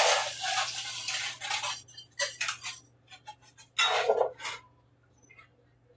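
Kitchen clatter: a rush of rattling for the first second or so, then scattered clinks and knocks of cups and utensils, with one louder clatter about four seconds in.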